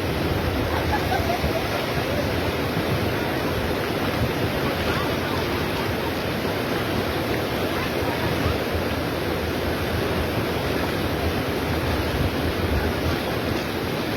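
Steady rush of a swollen river in flood, an unbroken wash of fast-moving water.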